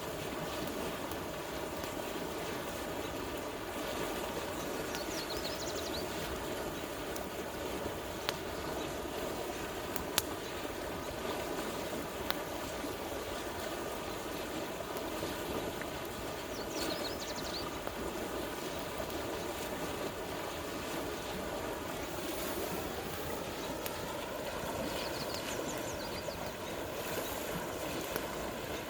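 Steady rush of a flowing river, with a few sharp cracks from a campfire. A hum rises in pitch about three quarters of the way through.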